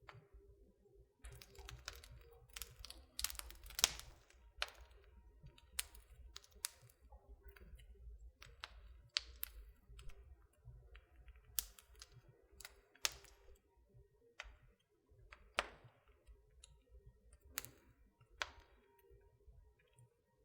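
Wood fire crackling in a fireplace: irregular sharp pops and snaps, one or two a second, some much louder than others.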